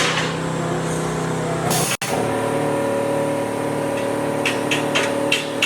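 An engine running steadily, cut off briefly about two seconds in. Near the end, sharp hammer strikes begin, about two a second.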